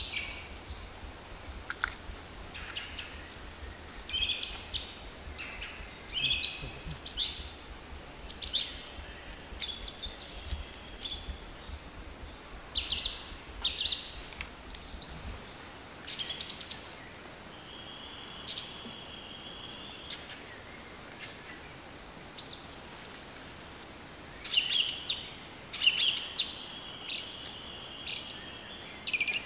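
Forest birds calling: many short chirps and whistles, some rising or falling, keep coming, with a couple of longer held notes. A low rumble underneath stops about halfway through.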